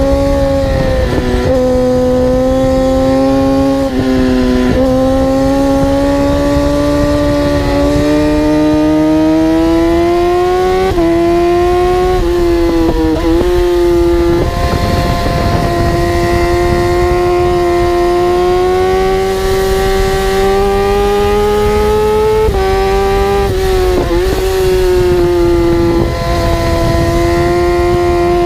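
High-revving vehicle engine under hard acceleration, its pitch climbing slowly and dropping sharply at each of several gear changes.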